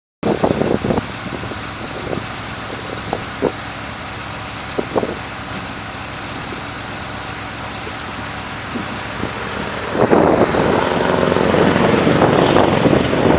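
Scania R500 V8 truck engine running steadily, with a few sharp cracks in the first five seconds, then getting louder about ten seconds in.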